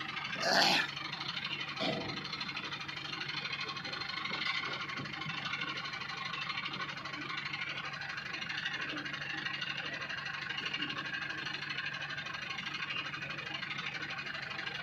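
Engine running steadily, with a loud bang about half a second in and a smaller one at about two seconds.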